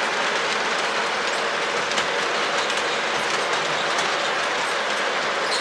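Lionel O-gauge model train rolling steadily around the layout track: an even rumble of wheels on rail with a few faint clicks.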